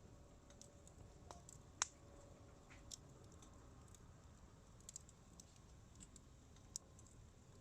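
Campfire wood crackling faintly, with scattered small sharp pops, the sharpest about two seconds in.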